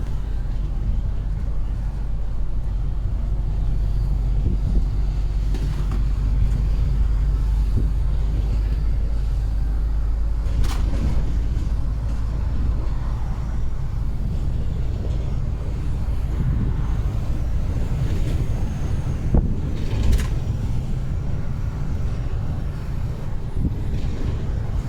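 Heavy truck driving: a steady low engine and road rumble. The deepest part of the drone drops about ten seconds in, and there are a couple of short clicks.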